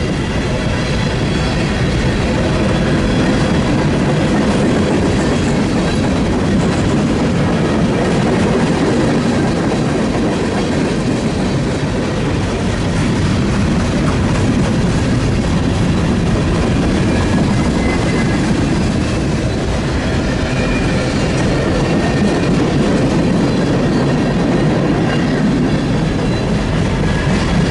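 Freight train passing: a steady rumble and clatter of cars rolling on the rails.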